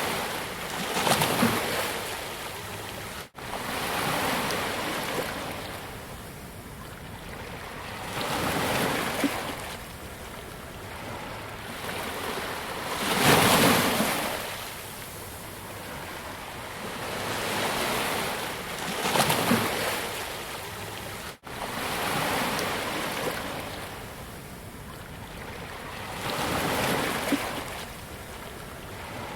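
Sea waves breaking on a beach in slow swells every few seconds, each rising and falling away, the loudest about thirteen seconds in. Two very short dropouts cut the sound, a little after three seconds and about twenty-one seconds in.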